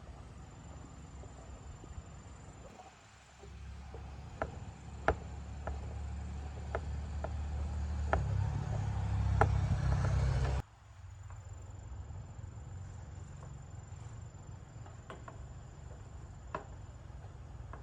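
A low mechanical hum that swells over several seconds and then cuts off abruptly about ten and a half seconds in, with scattered sharp clicks and taps throughout.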